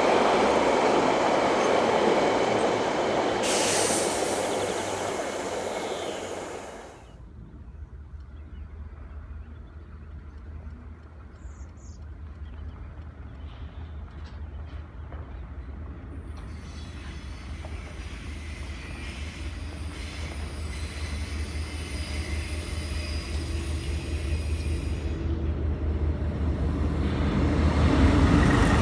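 Train passing with loud wheel-on-rail noise, which drops away sharply about seven seconds in. A low rumble from another approaching train then builds steadily until it is loud again at the end.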